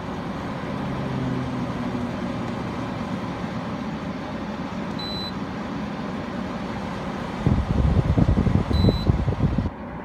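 Emerson Quiet Kool 8000 BTU through-the-wall air conditioner running on its fan, a steady blowing hiss. Its control panel gives two short high beeps, about five and nine seconds in, as buttons are pressed. A loud low thumping rumble fills the last couple of seconds, and the airflow noise drops just before the end.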